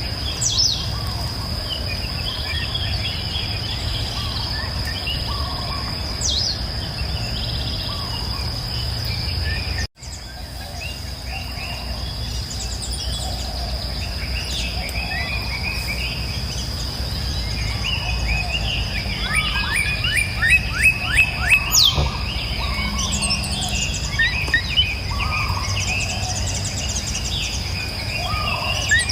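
Songbirds chirping and singing, with a quick run of repeated chirps about two-thirds of the way through, over a low steady rush of flowing river water and a continuous high insect drone. The sound cuts out for an instant about a third of the way in.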